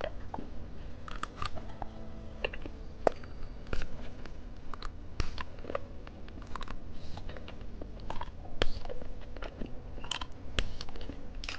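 Close-miked eating of candy: scattered biting, crunching and wet mouth clicks from chewing.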